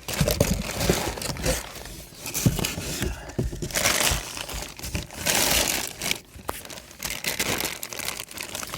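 Packaging crinkling and rustling in irregular bursts as the cast-iron ceiling fan motor is unwrapped and lifted out of its box.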